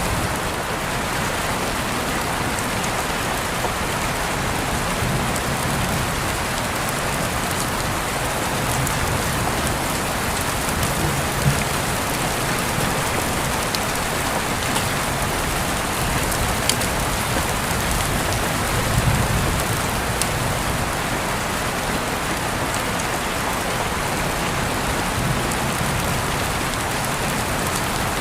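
Steady rain falling on a surface, with scattered drip clicks and low swells of louder rainfall around the middle and two-thirds of the way through.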